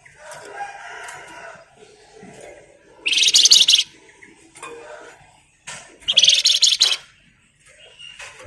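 Flamboyan (Wergan Jawa) songbird singing: scattered softer chirps, then two loud, rapid, rattling trills of about a second each, the dense 'ngebren' song, around three and six seconds in.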